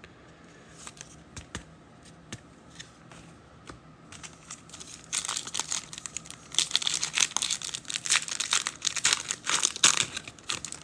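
A foil trading-card pack being handled and then torn open, with a few light clicks and taps at first and then dense crinkling of the wrapper from about five seconds in.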